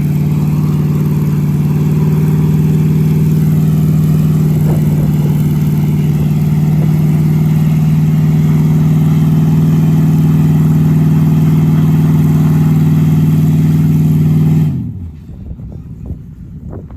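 A vehicle engine held at high, steady revs, then let off about 15 seconds in, its pitch falling away as the level drops sharply.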